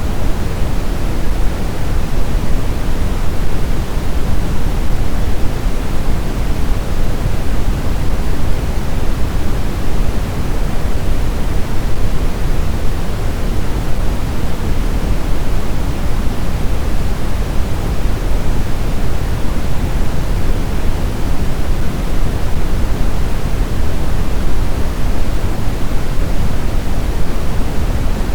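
Steady blizzard wind noise, a deep even rush with no gusts or breaks.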